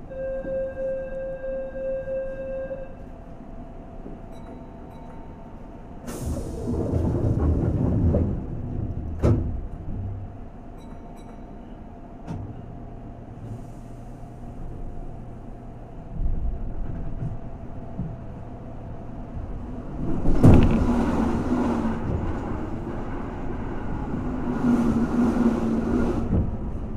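Onboard sound of a Keihan 2200 series electric train car standing at a station and then pulling away. A steady tone sounds for about three seconds at the start, a loud burst of noise comes about six seconds in, and a sharp knock follows a few seconds later. Low running noise from the motors and wheels then builds and swells twice near the end.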